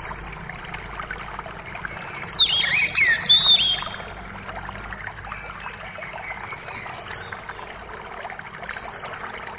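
Forest songbirds calling over a steadily trickling creek: a thin, high note repeats about every two seconds, and a burst of rapid twittering comes about two seconds in.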